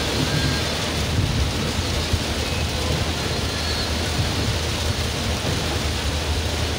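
Heavy rain beating on a car's roof and windscreen, heard from inside the cabin as a steady, even hiss over a low rumble from the moving car.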